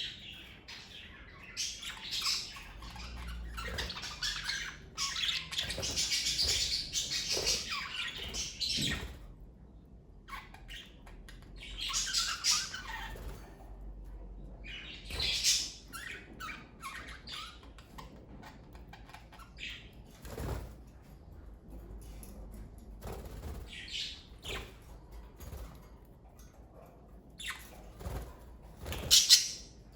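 Pet budgerigars chirping and chattering in irregular bursts, with quieter gaps and scattered short clicks between them. The longest stretch of chatter runs through the first third, and a loud burst comes near the end.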